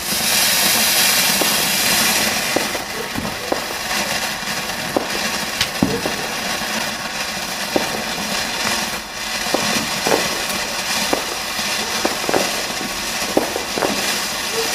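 Firework fountain catching with a sudden loud hiss, then spraying steadily, hissing with many scattered small crackles.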